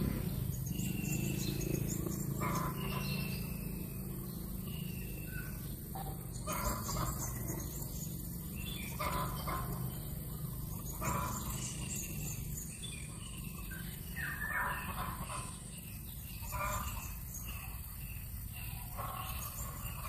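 Birds calling: short falling whistles about once a second at first, then short harsh calls every second or two, over a steady low hum.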